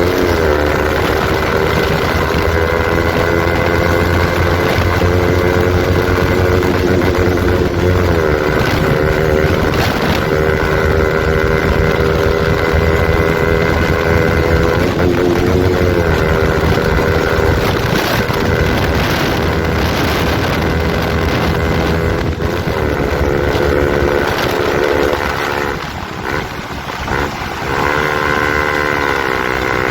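KTM RC 200's single-cylinder engine running loud through an Akrapovic exhaust with the dB killer removed. Its pitch holds steady, then dips and climbs again every several seconds, with a brief drop in level near the end.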